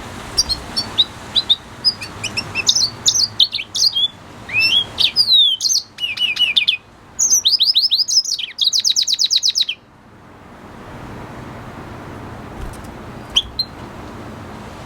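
Red siskin singing: a quick run of high twittering notes and up-and-down whistled glides that ends in a fast, even trill and stops about ten seconds in, followed by a couple of single chirps.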